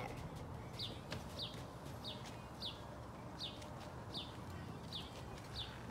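A bird chirping over and over: short falling notes, about eight of them, evenly spaced roughly every two-thirds of a second, over faint background hum.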